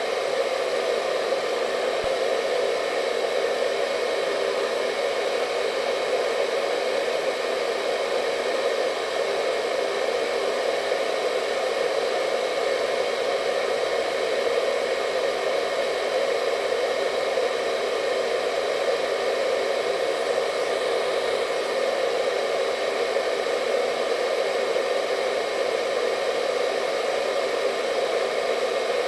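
Hair dryer running steadily: a constant rush of blown air with a faint motor whine, unchanging throughout.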